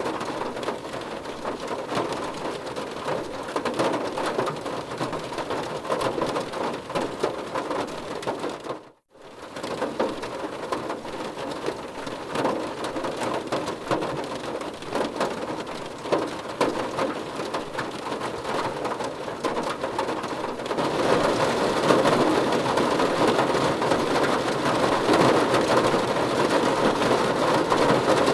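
Steady heavy rain with a dense patter of drops. It cuts out for a moment about nine seconds in, then comes back and grows louder about two-thirds of the way through.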